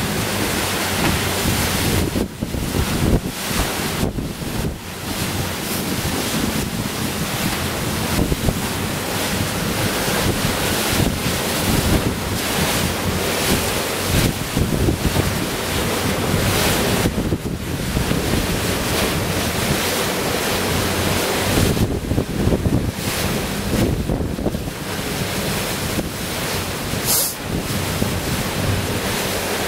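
Wind buffeting the microphone over the wash of the open sea and waves, in uneven gusts, with a steady low engine hum underneath.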